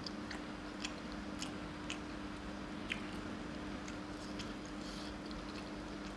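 Person chewing a mouthful of curry and roti, with short, irregular wet mouth clicks and smacks, over a steady low hum.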